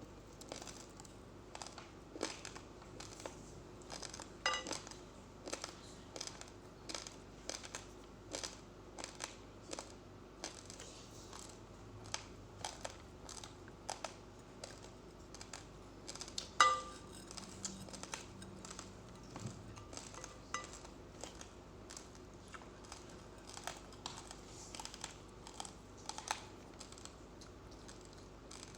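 Raw uncooked rice grains being crunched while chewing, close to the microphone: sharp, irregular crackles a few times a second. Two brief ringing clinks cut through, the louder about 17 seconds in.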